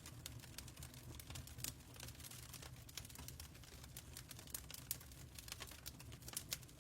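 Fireplace crackling: irregular sharp pops and snaps of uneven strength over a steady low rumble.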